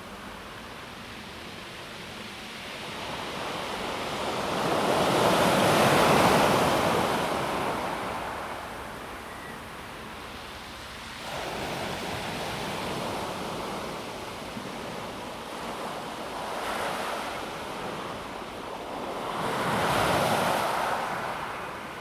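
Small sea waves breaking on a pebble beach and washing back, a steady hiss that swells and fades. The largest waves crest about six seconds in and again near the end.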